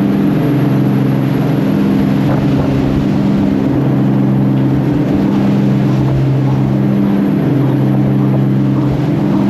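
Commercial aluminium gillnetter's engines running steadily at high speed, about 35 knots: a constant, even-pitched drone with a steady hiss of water and hull noise above it.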